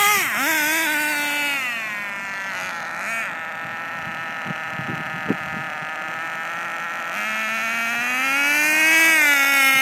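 O.S. .18 nitro engine of an HPI RS4 3 Evo RC car with a THS tuned exhaust, running with a high buzzing note. Its pitch drops in the first second and a half, holds at a lower speed, then climbs again from about seven seconds in and eases off slightly near the end.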